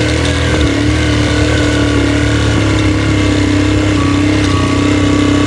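Motorcycle engine running at a steady speed while riding, holding one even pitch throughout.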